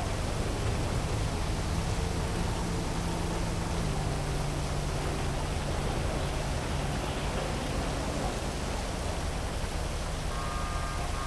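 Heavy rain falling over a city: a steady dense hiss, with the low hum of distant traffic underneath and a faint higher tone near the end.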